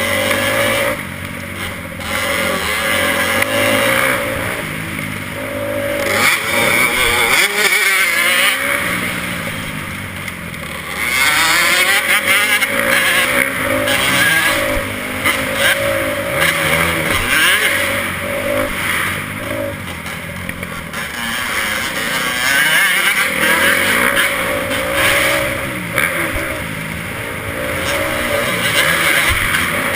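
Motocross bike engine revving hard and easing off over and over, its pitch rising and falling.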